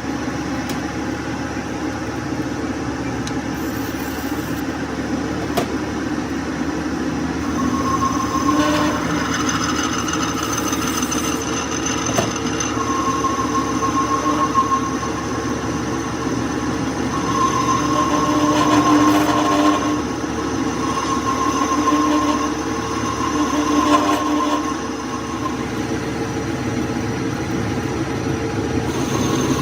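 Metal lathe running steadily, with a pitched squeal that comes and goes through the middle stretch.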